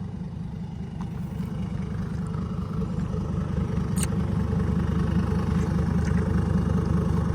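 Dump truck's Hino J07E six-cylinder turbo diesel running steadily, growing gradually louder.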